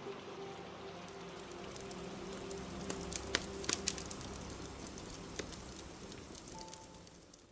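Steady rain with a crackling fire, a few sharp pops standing out about three to four seconds in; the whole ambience fades out near the end.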